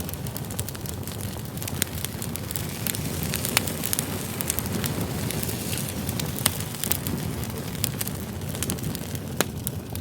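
Wood campfire burning, a steady low rush of flame with frequent sharp crackles and pops from the burning logs.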